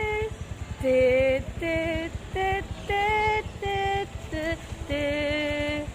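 A person singing a wordless tune, a string of about nine held notes that step up and down in pitch, with a low pulsing rumble beneath.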